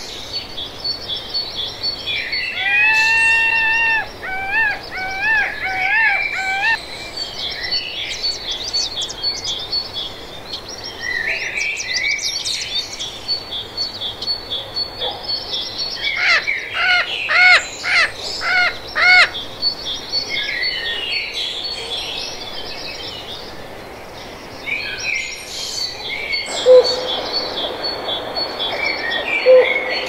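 Several wild birds singing and calling together: a steady high-pitched chirping runs throughout, a loud whistled phrase comes a few seconds in, and a run of loud rising calls comes about halfway through. Near the end the background changes and two short sharp notes stand out.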